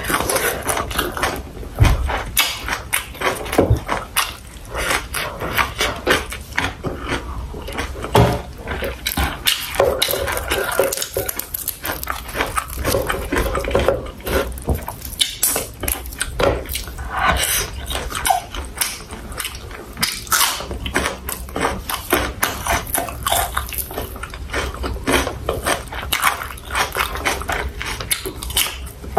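Close-miked chewing and mouth sounds of someone eating sausage with rice and vegetables: a dense, irregular run of wet clicks and crunches.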